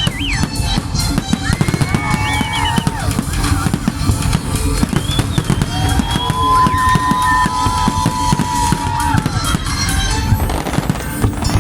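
Fireworks going off in rapid, continuous bangs and crackles, with music playing along.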